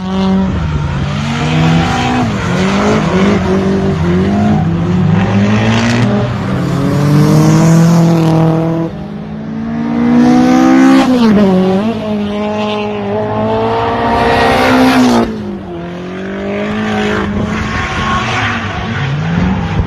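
Mini drift car's small engine revving up and down again and again while it drifts, with tyre squeal and skidding noise. The pitch drops sharply twice in the second half.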